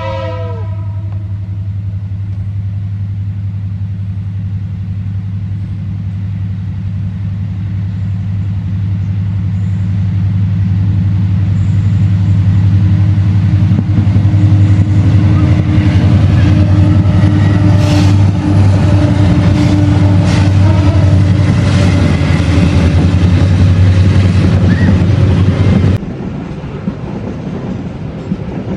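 Diesel locomotives hauling a long coal train approach and pass: a steady low engine drone grows louder over the first dozen seconds, with wheel clicks over the rails. About 26 seconds in the engine sound drops away abruptly, leaving the clatter of the loaded coal wagons rolling by.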